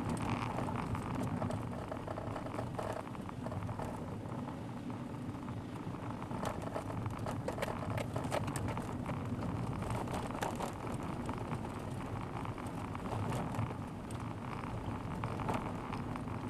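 Car driving, heard through a dashboard camera inside the cabin: steady engine and tyre noise with many small ticks and rattles, thickest in the middle.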